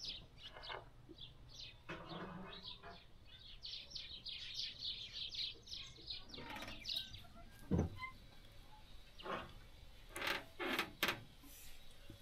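Small birds chirping in quick short calls, with a few sharp knocks near the end.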